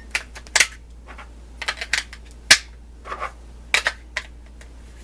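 Hard plastic clicks and snaps, about eight sharp separate ones, as a tight-fitting plastic part is worked open by hand. The loudest snap comes about halfway through.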